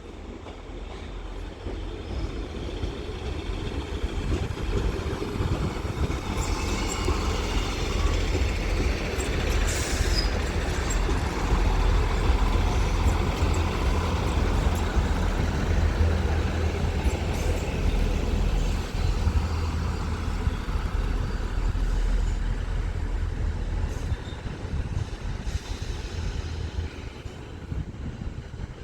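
Northern Class 158 diesel multiple unit arriving at a platform: a low diesel engine rumble with rail noise that builds, is loudest around the middle, then eases off as the train slows.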